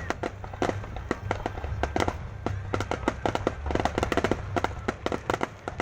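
Fireworks going off in rapid succession: a dense, irregular crackle of sharp pops and bangs, several each second, over a steady low rumble.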